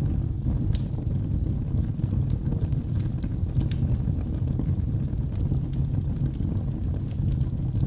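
Wood fire burning in a fireplace: a steady low rumble from the flames with scattered sharp crackles and pops from the burning wood.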